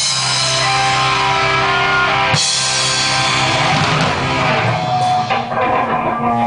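Amateur rock band playing: guitar over drum kit, with two cymbal crashes a little over two seconds apart. Past the middle the full band thins out, leaving single guitar notes ringing.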